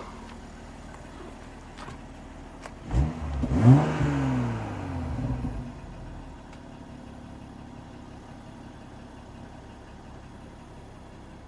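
BMW 8 Series engine idling at the exhaust, revved twice in quick succession about three seconds in, the revs then falling back to a steady idle.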